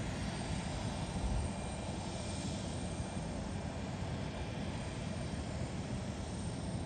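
Jet airliner's engines running steadily, a constant rushing noise with a faint high whine, and a brief low thump about a second in.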